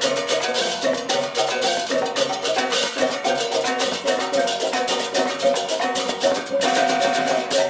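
Balinese gamelan playing: tuned metal keys and gongs ringing over fast, continuous clashing cymbals.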